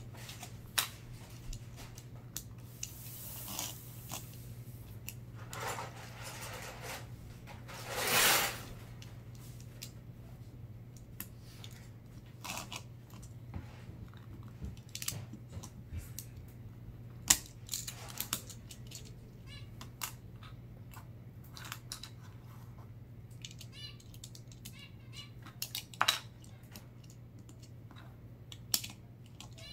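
Plastic Lego bricks being handled and pressed together: scattered small clicks and taps, with a few brief rustles, the loudest about eight seconds in, over a low steady hum.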